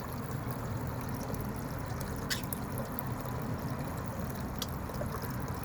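Small bird-bath fountain with water trickling steadily, with a couple of short clicks.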